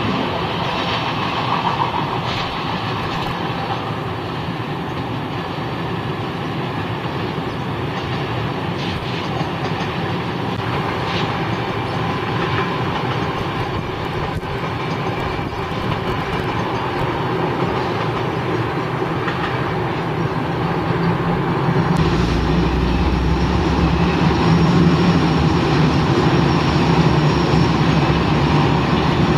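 Suburban passenger trains rolling past on the tracks, with steady wheel-on-rail noise and clatter. About two-thirds of the way in a deeper steady hum joins and the sound grows a little louder as a locomotive hauling stainless-steel suburban coaches passes.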